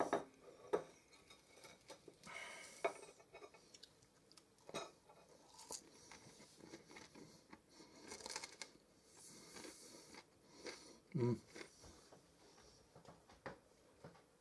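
A person eating a bite of cornbread: a fork clinks on the plate, then there is chewing with soft crunching of the crust, and a short hummed "mm" about eleven seconds in.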